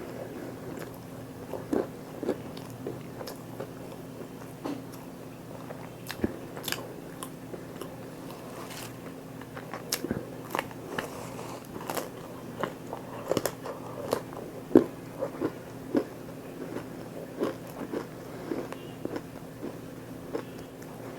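Close-miked eating: irregular biting and chewing with crisp, crunchy bites and wet mouth clicks, over a faint steady low hum.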